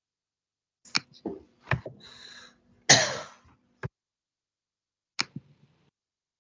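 A few scattered clicks and knocks, and a short, loud rush of noise about three seconds in, between stretches of dead silence.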